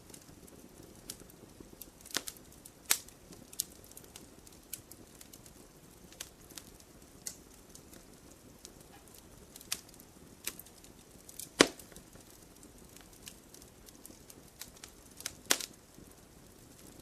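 Fire crackling in a fireplace: irregular sharp pops and snaps, a few seconds apart, over a faint low hiss. The loudest pop comes about two-thirds of the way through.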